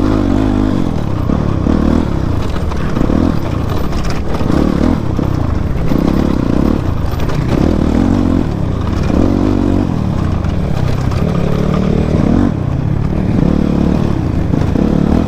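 Motorcycle engine running under way on a rough road, its revs rising and falling every second or so as the throttle is worked.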